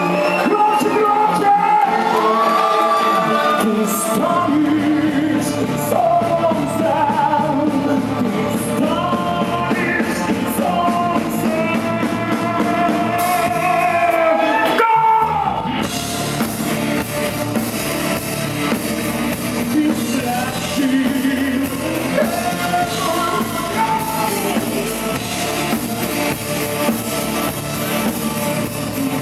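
A rock band playing live with a singer's voice carrying the melody over the band. About fifteen seconds in the sound breaks off for a moment and comes back fuller.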